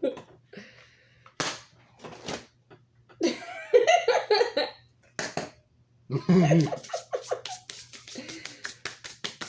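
A party popper going off with a sharp pop, then a second short crack, followed by laughter. Near the end comes a quick run of clicks, about five a second.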